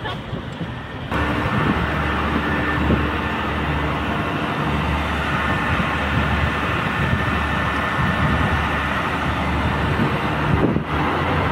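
Translink NI Railways diesel multiple unit running close by at the platform: a steady engine drone with a low hum. It starts abruptly about a second in.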